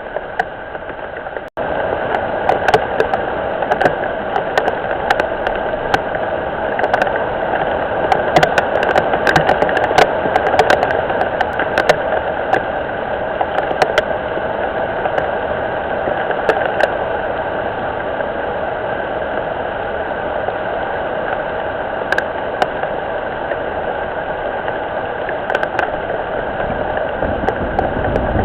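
Steady rain falling on a garden pond and the surfaces around it, a continuous hiss dotted with many sharp drop ticks. The sound breaks off for an instant about a second and a half in.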